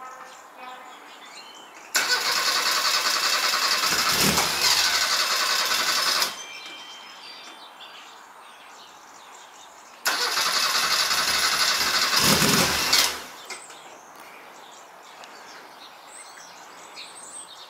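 Bond Bug's small Reliant four-cylinder engine being turned over on the starter in two attempts, one of about four seconds and one of about three, each starting and stopping abruptly.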